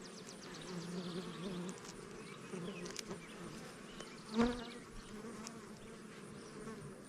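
Honeybees buzzing around an opened hive, a wavering hum with one louder buzz briefly about four seconds in. The bees are stirred up by the hive inspection.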